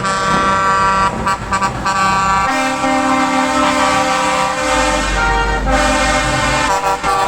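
Truck air horns sounding almost without a break, several horns overlapping and switching to different notes every second or two. A deep engine rumble joins about five seconds in.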